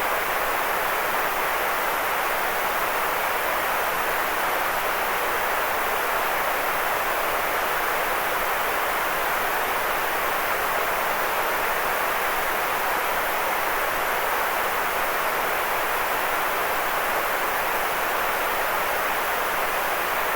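Steady white noise for sleep: an even, unchanging hiss, strongest in the middle range and thinner in the lows and highs.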